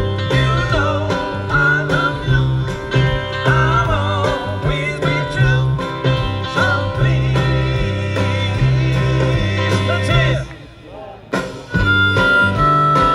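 A band playing blues-country music, with harmonica and guitar over a steady bass line. The music drops off briefly about ten and a half seconds in, then comes back with a held harmonica note.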